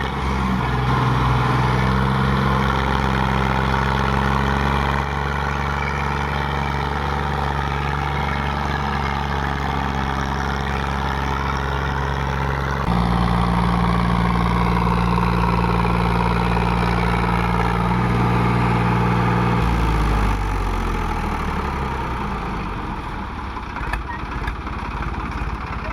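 Tractor diesel engine revving up and held at high revs, stepping to a different, louder pitch about halfway through, then dropping back down toward idle near the end.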